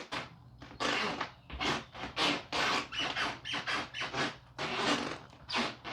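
Old wooden floorboards creaking and squeaking under footsteps, about two creaks a second in a steady walking rhythm. The boards are loose and creak throughout the house.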